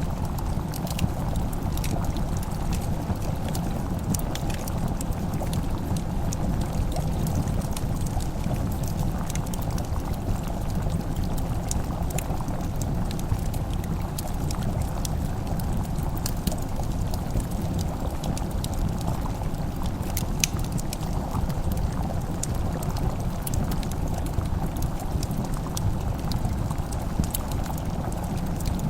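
Fireplace fire burning, with scattered small crackling pops over a steady low rumble.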